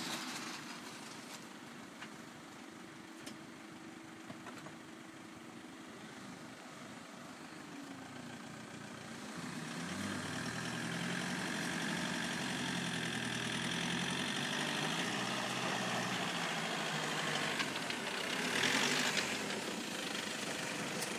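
A vehicle engine idling quietly, then from about halfway in running louder, its pitch rising and falling as it is worked, with a high whine over it.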